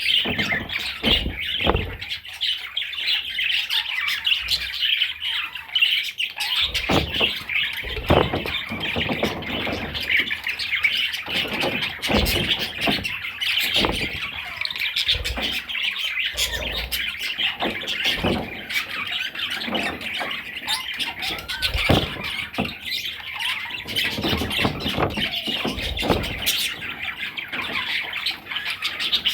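Budgerigar chattering and warbling without a break, with squawks mixed in, over many scattered short knocks.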